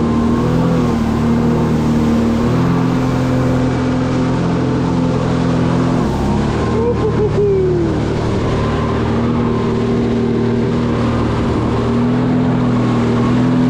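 Jet ski engine running steadily at speed. Its note eases and falls about six seconds in as the throttle comes off, then rises again near the end.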